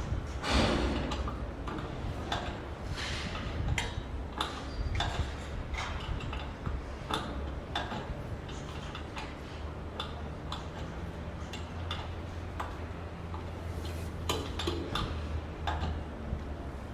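Irregular sharp clicks and knocks, about one or two a second, over a steady low hum; the loudest knock comes about half a second in and rings briefly.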